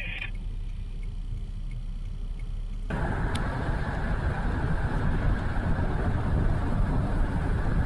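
Car cabin noise: a steady low rumble from the engine and road. About three seconds in, it jumps suddenly to a louder, fuller rush of wind and road noise.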